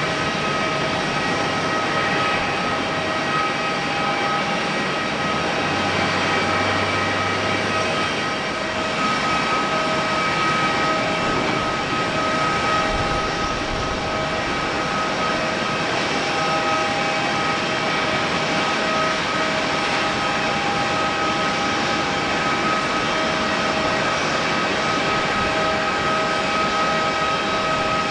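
Jet airliner engines running steadily, a continuous rushing noise with a steady high whine over it.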